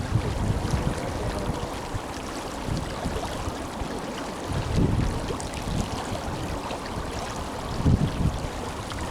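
Tenryū River flowing strongly, a steady rush of water, with wind buffeting the microphone in low gusts about five and eight seconds in.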